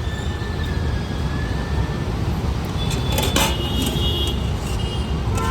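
Roadside traffic noise: a steady low rumble of passing vehicles, with a short clatter of knocks about three seconds in.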